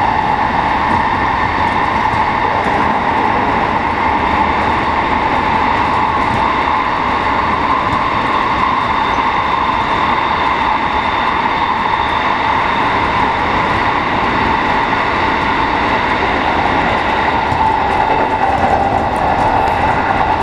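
A 207 series electric commuter train running at speed through a tunnel, heard from inside the cab: a loud, steady rumble of wheels and running gear with an even hum near the middle of the range.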